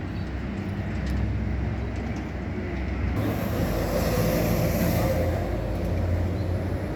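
Scania K450 bus's diesel engine running steadily. A hiss of air sets in about three seconds in and fades after a couple of seconds.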